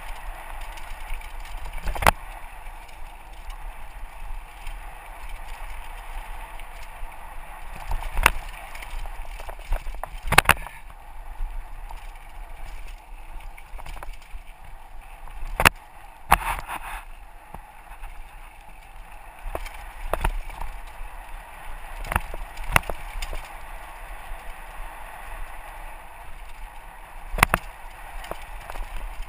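Mountain bike rolling fast down a dirt trail, the tyres and frame rattling steadily, with about ten sharp knocks as it hits bumps and rocks, heard through a helmet-mounted GoPro.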